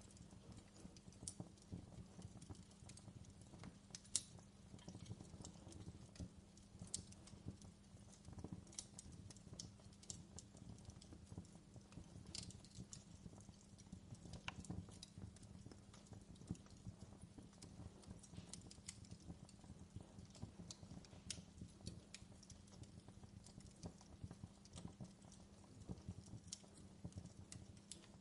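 Faint fireplace crackling: irregular small pops and snaps of burning wood over a low steady hum.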